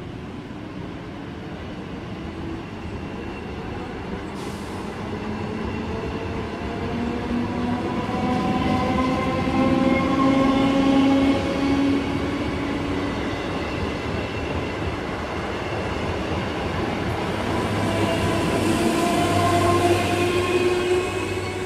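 An electric multiple unit (EMU) local train running past at close range: its wheels rumble on the rails and its traction motors give a whine made of several tones that slowly rise in pitch. It grows louder toward the middle and again near the end.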